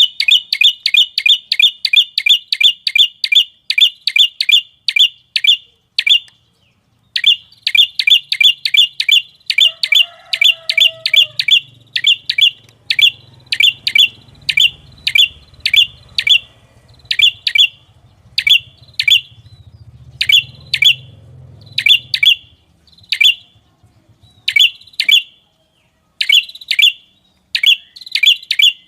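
A small songbird repeating one sharp, high chirp. The chirps come about three a second at first, stop briefly, then resume and slow to about one a second, with short gaps. A faint low hum runs underneath through the middle.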